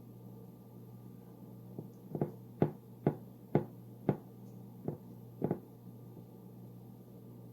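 A series of about eight sharp knocks or taps, roughly two a second, over a steady low hum.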